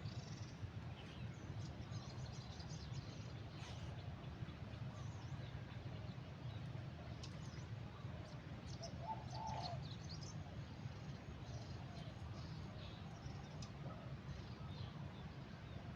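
Small birds chirping and calling in short, scattered notes over a steady low rumble of background noise, with one lower call about nine seconds in.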